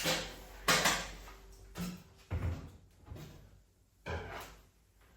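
A handful of separate knocks and bumps, roughly a second apart, each dying away quickly.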